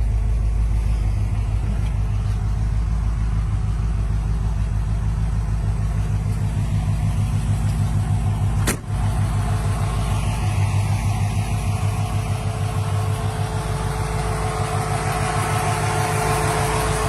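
Classic car engine running at idle with a steady, rhythmic low throb. The sound breaks off for an instant about nine seconds in, then carries on.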